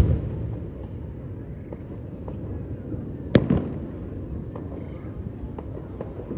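Aerial fireworks exploding: the rumble of one bang dies away at the start, a single loud, sharp bang comes about three and a half seconds in, and several faint pops are scattered between.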